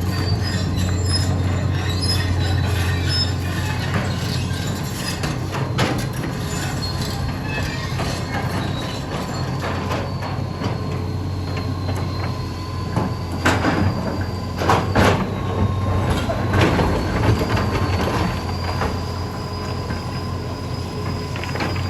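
Hitachi EX200 hydraulic excavator at work: its diesel engine runs steadily under a thin, high squeal, with a cluster of sharp knocks and clanks a little past the middle.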